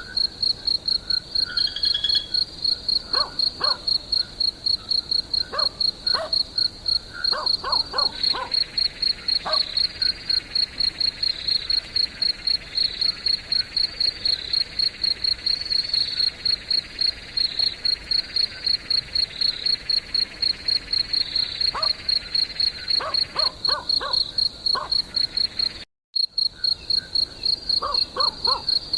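Crickets chirping steadily in a high-pitched, even pulse, about four chirps a second, with a steadier insect trill joining in the middle. Short sharp calls come in small clusters now and then. The sound cuts out for a split second near the end.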